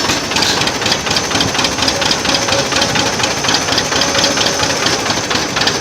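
Old tractor engine running steadily at low speed, its exhaust beats even at about six or seven a second.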